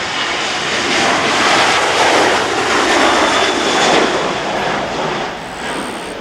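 Jet airliner at takeoff thrust: a loud, rushing jet noise that builds, peaks midway, then starts to fade near the end as the aircraft passes.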